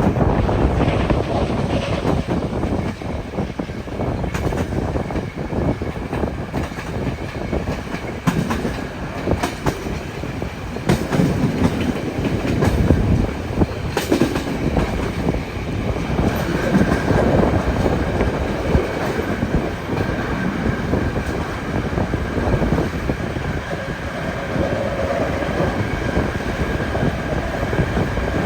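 Railway train running along the track, its wheels clattering over the rail joints with a dense, steady rumble. A faint horn-like tone begins near the end.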